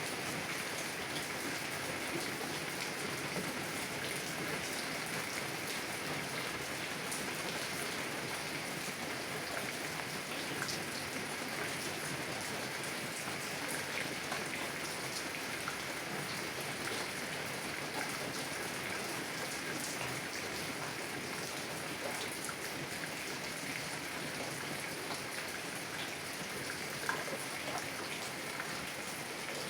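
Heavy rain falling steadily on a car's window, with scattered individual drops ticking on the glass over an even hiss.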